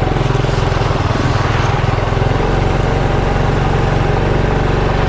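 Motorcycle engine running steadily as the bike rides along, its note shifting slightly a little over two seconds in.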